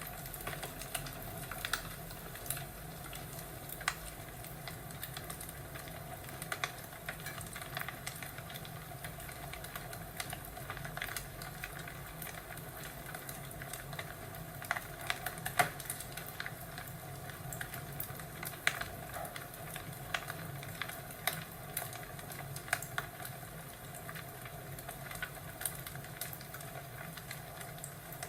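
Fireplace crackling: a steady low hiss broken by sharp, irregular pops and snaps every second or two.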